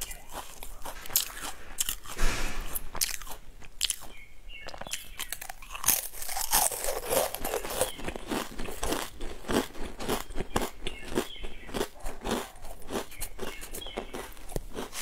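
A person biting into a round biscuit and chewing it, with a steady run of crisp, irregular crunches, some louder than others.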